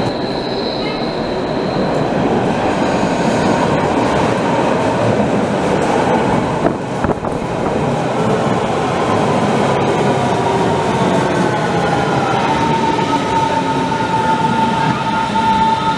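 Berlin S-Bahn electric train running through an underground station, a heavy steady rumble of wheels on rails under the platform roof. Later on, a rising electric motor whine comes in and levels off into a steady tone near the end.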